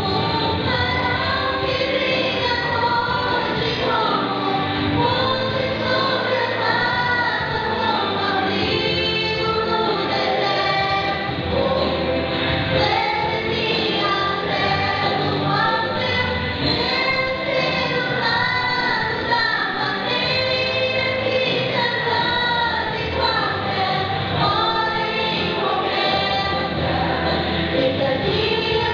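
Two women singing a gospel song as a duet over musical accompaniment, the voices holding and bending long sung notes.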